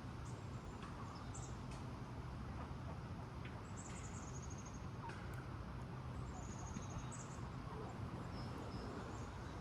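Small bird singing: two short, high, slightly falling trills about four and seven seconds in, with a few faint chirps between them, over a steady low rumble.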